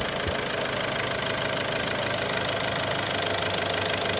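2008 Ford Focus 2.0 TDCi four-cylinder diesel engine idling steadily just after a restart.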